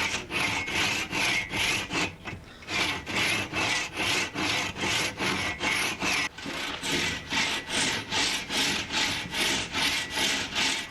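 Hand saw cutting through wood in quick, even rasping strokes, about three a second, with a brief pause about two seconds in before the strokes resume.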